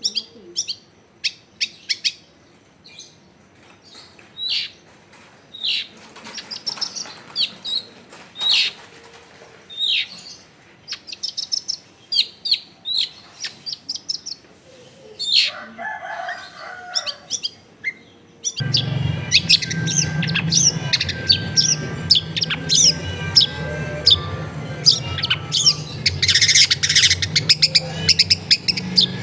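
Long-tailed shrike (cendet) singing a varied run of sharp chirps and whistled notes. About two-thirds of the way in, a steady low hum comes in under it and the song becomes denser.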